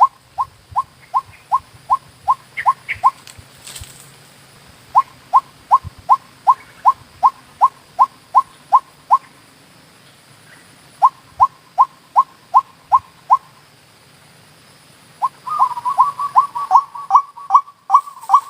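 White-breasted waterhen calls: runs of short, clipped notes, about three a second, with pauses of a second or two between runs. Near the end the notes come faster and crowd together.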